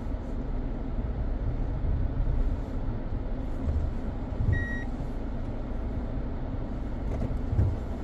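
Steady road and engine noise of a car driving, heard from inside the cabin. A brief high beep sounds about halfway through.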